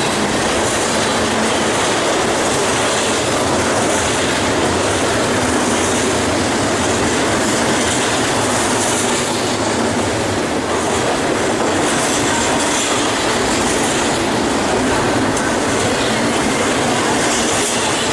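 Cars of a BNSF double-stack freight train rolling steadily past on the rails.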